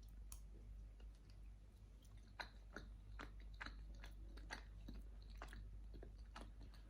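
Faint close-up chewing of boiled potato-filled dumplings, with small irregular mouth clicks, more of them from about two seconds in.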